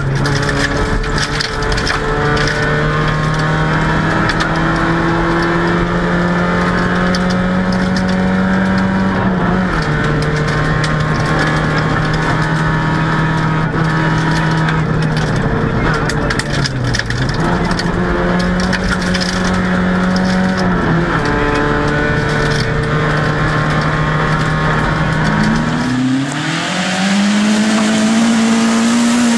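Inside the cabin of a VW Golf GTI 16V rally car, its 16-valve four-cylinder engine is running hard at high revs. The pitch steps up and down a few times with gear changes and lifts. Near the end the sound switches to the same car heard from outside, its engine note rising as it approaches.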